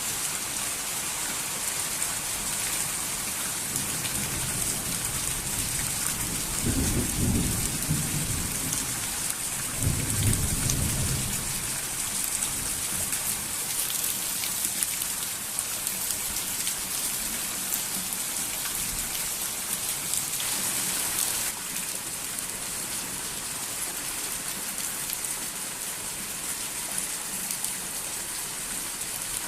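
Steady rain falling, with two low rolls of thunder about seven and ten seconds in. The rain hiss grows heavier in the middle and drops back sharply about two-thirds through.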